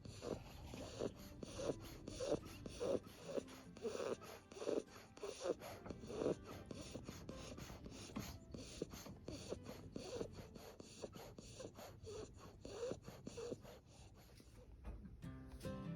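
A sleeping French bulldog snoring loudly, in quick snorting breaths about two a second that ease off a little near the end. Music comes in about a second before the end.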